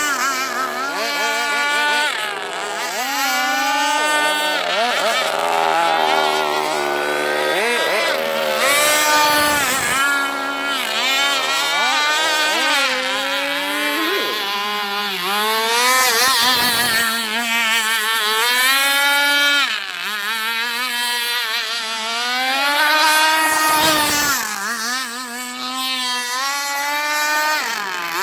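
Zenoah G260PUM 26 cc two-stroke engine of a petrol radio-controlled boat running. Its pitch rises and falls over and over as the throttle is opened and closed.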